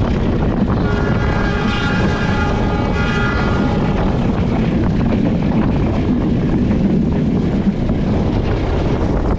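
Passenger train running at speed, a loud steady rumble of wheels and air. About a second in, a pitched tone with several overtones sounds over it for about three seconds, then fades.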